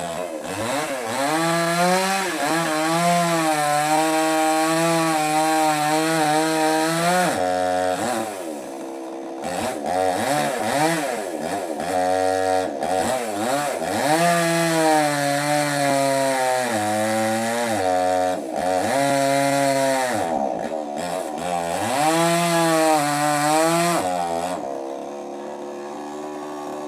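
Small gasoline chainsaw cutting wood at high revs, its pitch wavering under load. It drops back to a lower idle several times between cuts.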